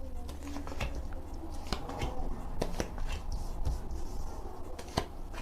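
A deck of reading cards shuffled and handled by hand: soft rustling with scattered light clicks and snaps of the cards.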